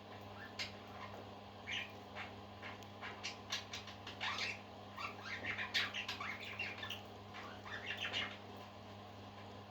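Parakeets chattering, a fast jumble of short chirps and squawks that is busiest in the middle and dies down near the end, over a steady low hum.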